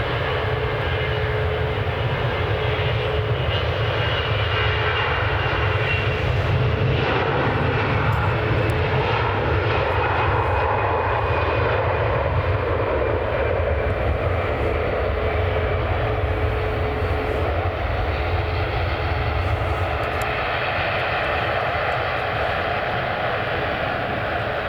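Airliner engines running steadily, with a constant humming tone underneath, swelling a little in the middle and easing off towards the end.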